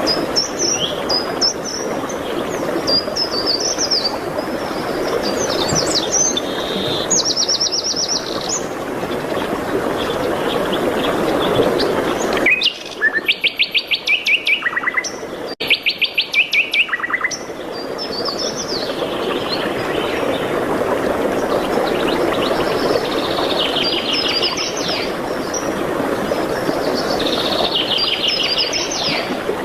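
Several songbirds singing short chirps and fast trills over a steady rushing background noise. The background drops out for a few seconds near the middle, leaving rapid trills in the clear.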